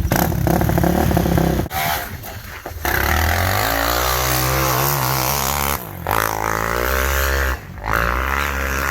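Quad bike fitted with snow tracks being run hard, its engine pitch rising and falling as the throttle is worked, with the engine note dropping away briefly three times.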